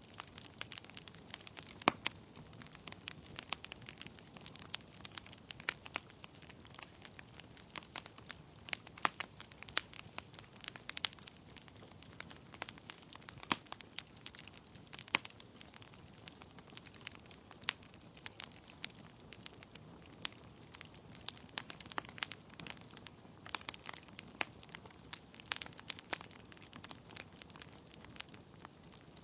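Wood logs burning in a fireplace, crackling steadily over a low hiss of flame, with irregular sharp snaps and a few louder pops.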